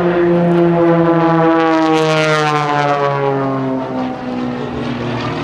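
Extra 300S and MX2 aerobatic propeller planes flying past in close formation; the propeller and engine drone swells to its loudest about two seconds in and its pitch falls steadily as they pass.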